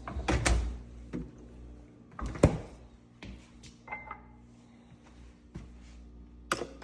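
Scattered knocks and clicks of handling a GE French door refrigerator, with the loudest knock about two and a half seconds in.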